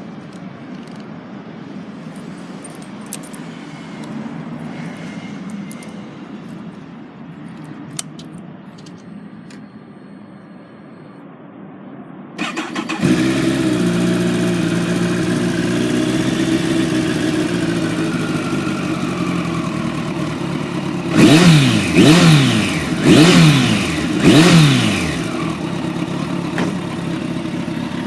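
Kawasaki ZZ-R1400 inline-four with a BEET full aftermarket exhaust, started about twelve seconds in: a brief crank, then it catches and runs at a fast cold idle that slowly settles. About eight seconds later the throttle is blipped four times in quick succession, the loudest part, before it drops back to idle.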